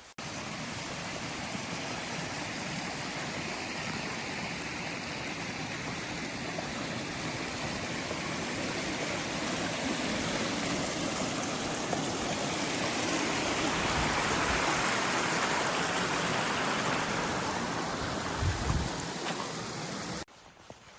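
Steady rushing of running water, swelling slightly toward the middle, cutting in and out abruptly. A couple of low thuds near the end.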